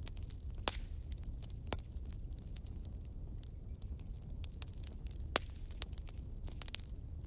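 Wood campfire burning: irregular sharp crackles and pops over a steady low rumble, with a faint short rising whistle about three seconds in.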